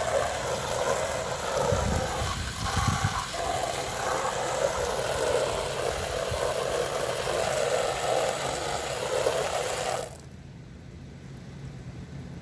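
Water spraying hard against house siding in a steady hiss, cutting off suddenly about ten seconds in. A low steady hum carries on underneath.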